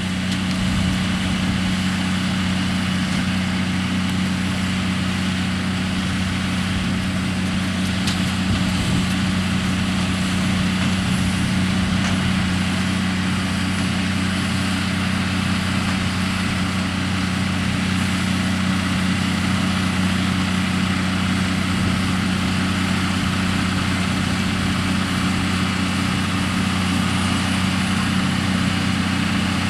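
John Deere 7R tractor and Grimme EVO 290 twin-row potato harvester running steadily while digging potatoes: a constant low engine hum under the harvester's mechanical noise.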